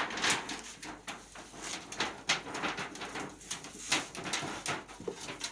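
Thin aluminium roofing sheet being handled. It makes an irregular run of crinkles, light scrapes and metallic rustles.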